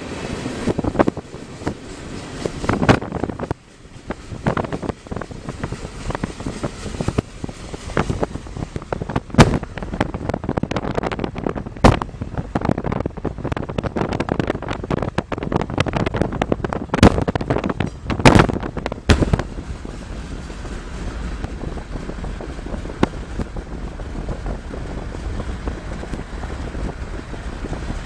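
Wind buffeting a microphone held out of a moving car's window, with irregular sharp pops over a steady low road rumble; the pops thin out about twenty seconds in.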